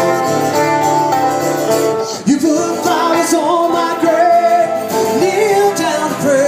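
A song played on guitar, with a voice starting to sing a little over two seconds in.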